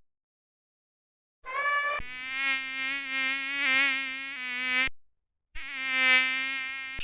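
Insect-wing buzzing, a steady drone that starts about a second and a half in and lasts about three and a half seconds, then returns for a second and a half near the end.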